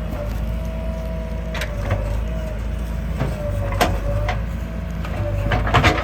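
Diesel engine of a backhoe loader running steadily, with a wavering whine above it and several sharp knocks and clanks, the loudest cluster near the end.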